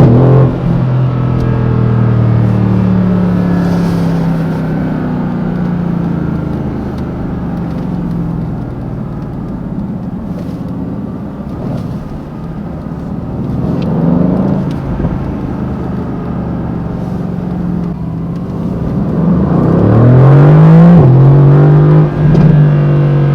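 Mercedes-AMG GT C Roadster's twin-turbo V8 under way, running through the gears. Just after the start the rising pitch breaks at a shift, and the engine cruises with a brief rise in the middle. Near the end it pulls hard with rising pitch, drops sharply at an upshift, and pulls on.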